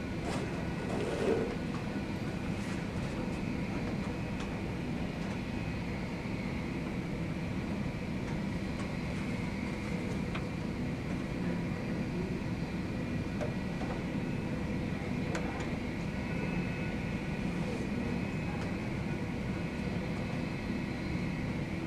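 Jet aircraft engines running steadily: a constant hum with a faint, steady high whine.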